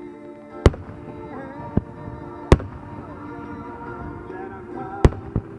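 Aerial fireworks shells bursting: five sharp bangs, the loudest just under a second in, around two and a half seconds in, and about five seconds in. Music with singing plays steadily underneath.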